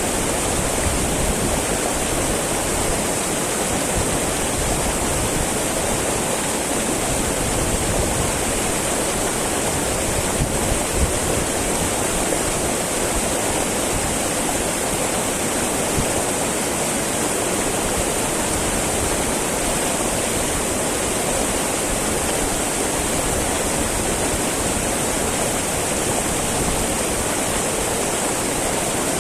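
A small mountain river babbling and rushing steadily over its bed.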